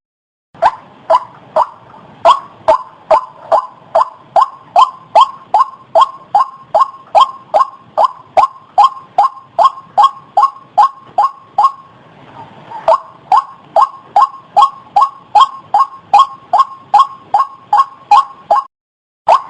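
White-breasted waterhen (ruak-ruak) calling: a fast, even run of short, sharp notes, about two or three a second. The run breaks off briefly a little after halfway, resumes, and has a short gap near the end.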